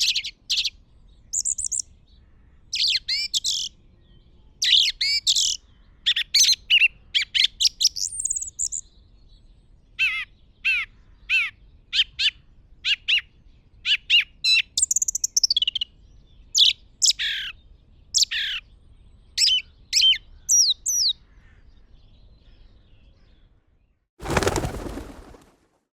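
Songbird calls: a long run of short, high chirps and quick trilled notes, some sliding down in pitch, with short pauses between them. They stop a little after 21 seconds in, and about 24 seconds in a loud burst of noise cuts in for just over a second.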